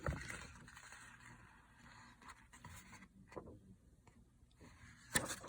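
Handling of a book's paper pages: quiet rubbing and rustling, with a short knock at the start and a sharper, louder rustle about five seconds in.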